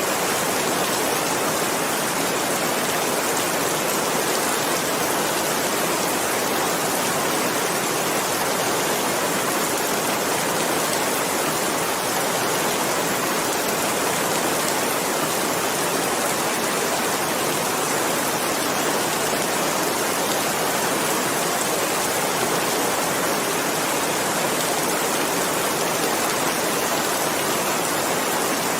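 Steady, dense rainfall: an even hiss of countless drops, with no single drop or other sound standing out.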